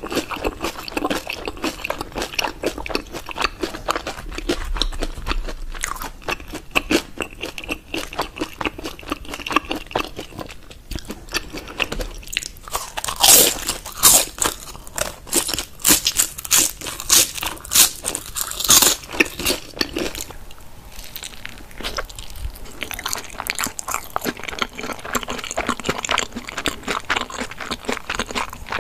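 Crispy pan-fried dumplings being bitten and chewed: a steady run of crunching and wet chewing, with a few louder crunchy bites about halfway through.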